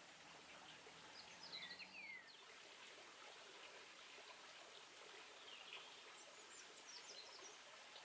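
Small birds chirping faintly in two short bouts of quick high calls, about a second in and again around six seconds, over a steady faint hiss.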